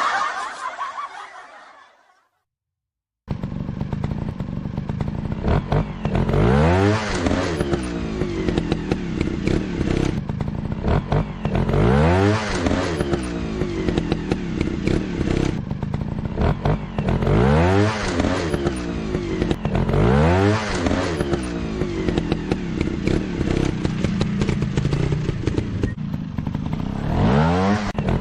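Motocross dirt bike engine running, revved up and let back down about every five seconds. It comes in after about a second of silence near the start.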